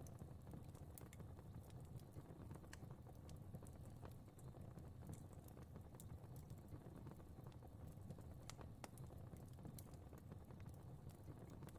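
Fireplace fire crackling quietly: scattered sharp pops and ticks at irregular intervals over a low, steady rumble of flames.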